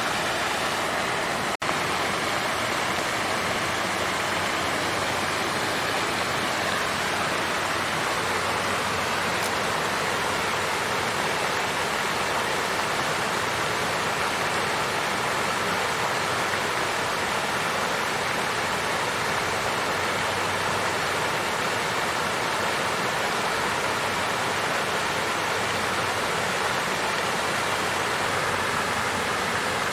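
Water fountain flowing steadily, an even rush of splashing water, with a split-second dropout about a second and a half in.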